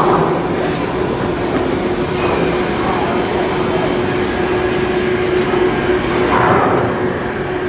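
Steady machinery noise with a constant hum, a few faint swells rising and falling over it.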